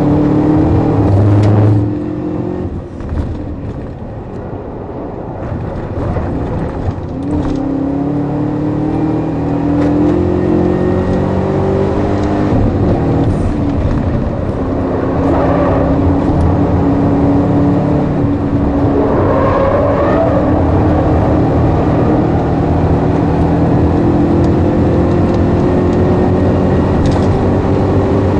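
A 2012 Chevrolet Camaro ZL1's supercharged V8, heard from inside the cabin at racing speed. The engine eases off about two seconds in and picks up again a few seconds later. From about halfway it pulls in one long rising run toward 6000 rpm, with steady tyre and road noise underneath.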